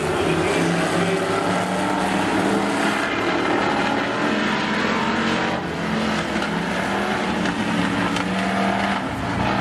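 Several demo cars racing on a speedway oval, their engines running hard at overlapping pitches.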